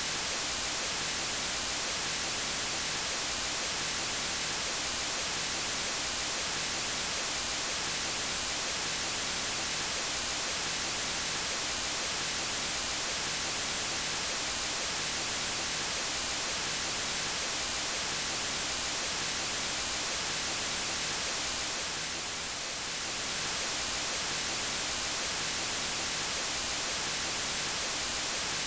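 Steady white noise, an even hiss. It dips slightly in loudness for about a second roughly three-quarters of the way through.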